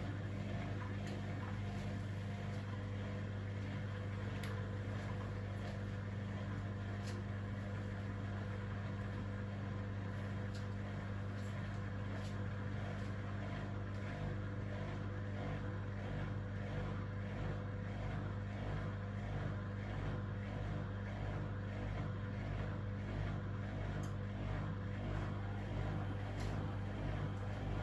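Privileg washing machine spinning: a steady low motor hum over a drum rumble, getting slightly louder and less even near the end.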